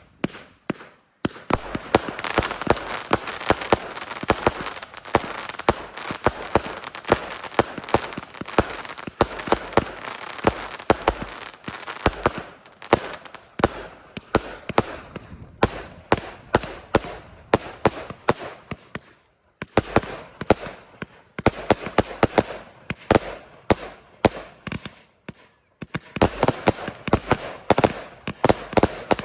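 Firework display: rapid volleys of bangs and crackling, fired in barrages with short breaks about a second in, about two-thirds of the way through and shortly before the end.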